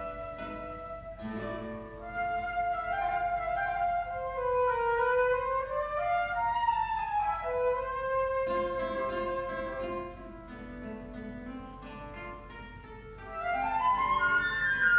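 Flute and guitar duet: the flute plays a flowing melody over plucked guitar notes. The music drops to a quieter stretch and comes back with a rising flute phrase near the end.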